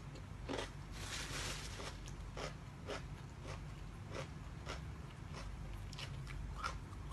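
A person chewing and biting food close to the microphone: irregular short crunches a few times a second, with a denser run of crunching about a second in.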